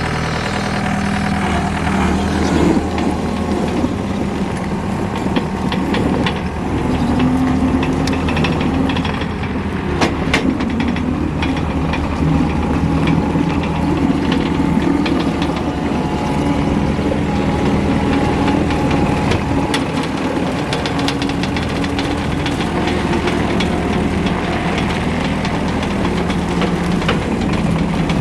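Diesel engine of a 2014 John Deere 323 skid steer running steadily, with scattered sharp clicks and knocks; the strongest knock comes about ten seconds in.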